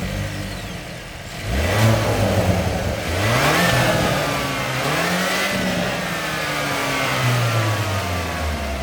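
Hyundai Veloster N's turbocharged 2.0-litre four-cylinder engine and exhaust revving, its pitch climbing and dropping several times and falling away near the end.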